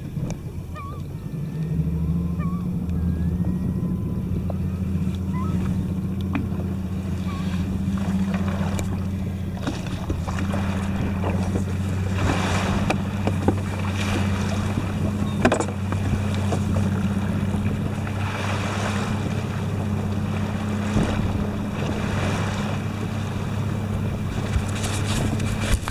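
Boat engine running steadily with a low hum that rises a little about two seconds in, with wind and water washing against the hull at irregular moments.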